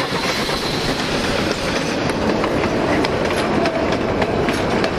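A train passing close by: a dense rushing rumble with many sharp clacks of wheels over rail joints.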